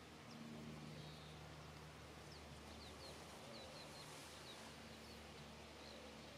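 Faint, quick high chirps of small birds, a dozen or so short notes bunched in the middle, over a low steady hum.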